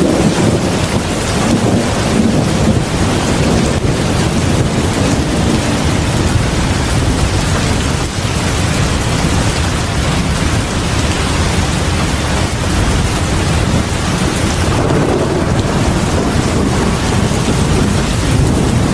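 Heavy rain pouring steadily, a dense, even hiss with a strong low rumble underneath.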